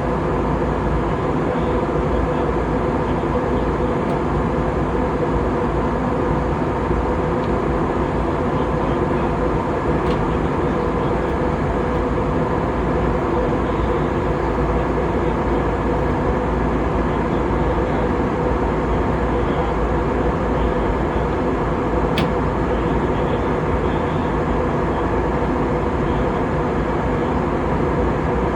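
Steady jet engine and airflow drone heard inside an AirAsia airliner cabin, a constant rumble with a few steady hum tones on top. There is a single faint click about 22 seconds in.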